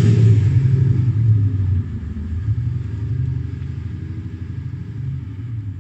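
Simulated V8 exhaust rumble from an Active Sound system fitted to a Mercedes-Benz R-Class 350 diesel. The low burble drops in level about two seconds in, then fades away slowly.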